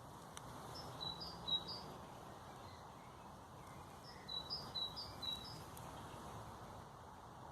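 A songbird singing two short phrases of quick high chirps, one about a second in and another about four seconds in, over a steady background hiss.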